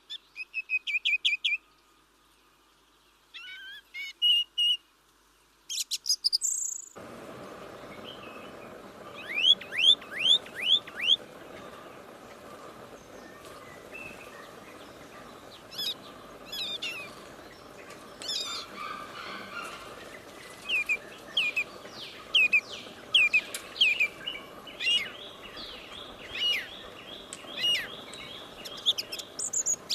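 Small birds chirping in quick runs of short, falling notes, with several birds calling over one another. About seven seconds in, a steady outdoor background hiss starts abruptly, and the chirping becomes busier.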